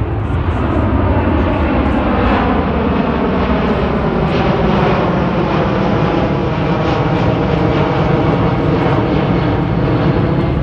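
KC-10 Extender tanker's three turbofan engines running loud during a low pass, a heavy steady jet rumble whose engine tones slide slowly in pitch as the aircraft moves past.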